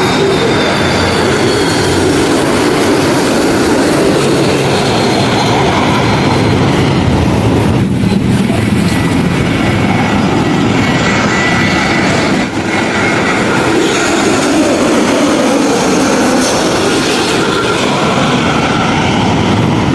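Jet airliner engines: a loud, steady rush with a faint high whine that slowly shifts in pitch.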